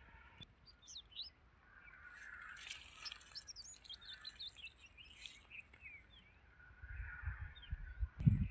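Small birds chirping: a quick flurry of short, high calls that is busiest in the middle, with some low thuds near the end.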